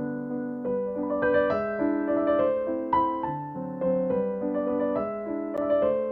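Background piano music: a gentle melody over soft chords, notes changing every half second or so.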